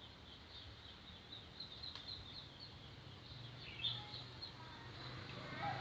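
Faint outdoor wildlife chirping: a run of short high chirps, a few a second, with one stronger chirp a little before four seconds in, over a low steady hum.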